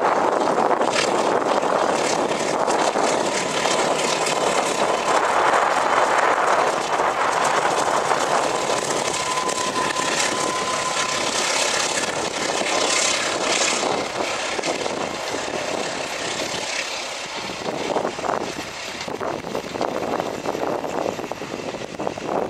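Passing passenger train: a diesel locomotive running and its coaches' wheels rumbling along the rails, with light clicking from the track. A brief thin whine is heard about ten seconds in.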